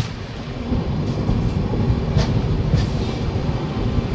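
Train coaches rolling past with a steady low rumble, and a few sharp wheel clicks over the rail joints about two seconds in.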